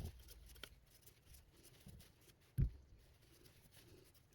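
Faint small clicks of handling, with one short low knock about two and a half seconds in, as a small ND filter is fitted onto a camera.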